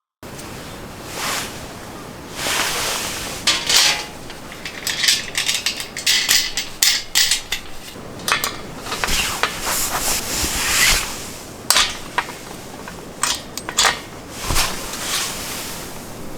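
Objects being handled, with irregular clattering, clinks, knocks and rustles.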